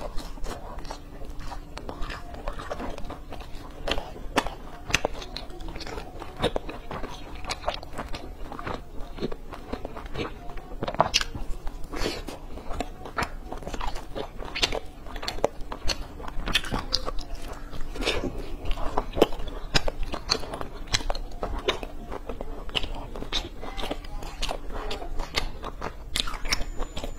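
Close-miked biting and chewing of crisp fried cheese-filled cakes: a continuous run of small, sharp crunches and crackles.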